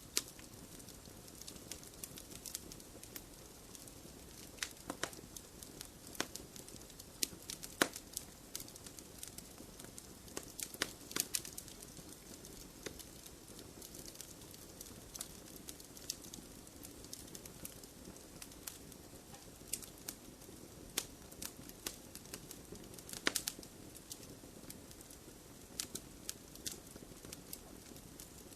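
Wood fire crackling in a fireplace: a steady low hiss of burning with irregular sharp pops and snaps, a few of them louder.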